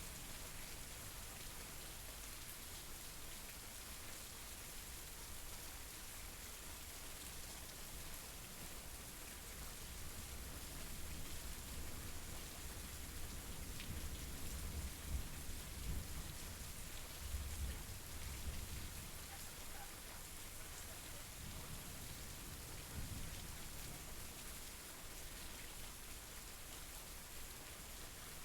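Steady rain falling, a dense even patter. A low rumble swells up and fades away around the middle.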